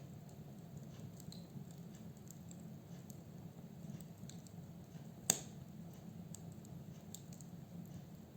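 Firewood burning in a fireplace: a low steady rush of the flames with scattered faint crackles, and one loud sharp snap about five seconds in.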